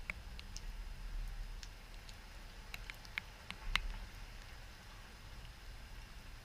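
Low, gusting wind rumble on the microphone with scattered faint ticks and clicks, the sharpest about three and a half seconds in.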